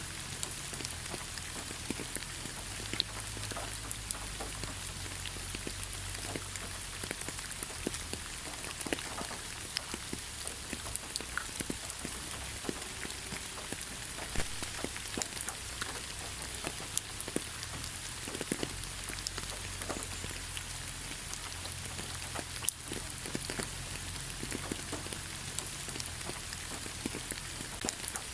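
Steady rain falling on a forest: an even hiss with many separate drops pattering close by.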